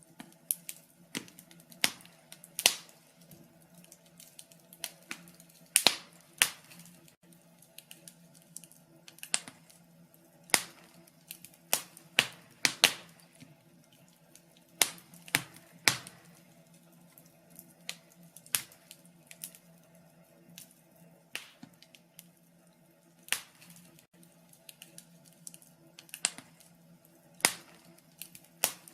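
Wood fire in a fireplace crackling, with irregular sharp pops and snaps, a few louder than the rest, over a faint steady low hum.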